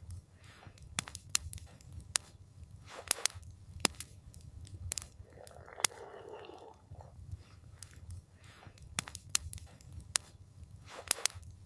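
Campfire crackling: irregular sharp pops and snaps over a low steady rumble, with a soft rushing swell about the middle.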